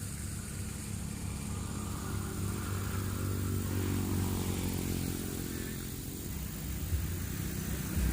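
A motor vehicle's engine running steadily, swelling a little toward the middle and easing off near the end, as if passing along a nearby road.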